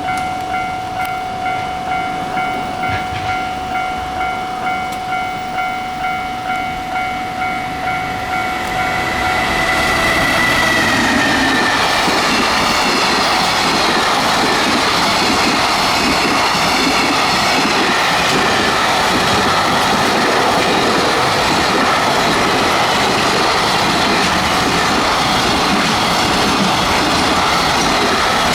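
A rhythmic ringing of a few fixed tones, pulsing about twice a second. About ten seconds in, a JR Freight EF210 electric locomotive and its train of container wagons pass close by, and steady loud rolling and clattering of wheels on rail covers everything to the end.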